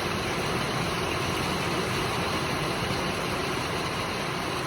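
Heavy downpour: a steady hiss of pouring rain.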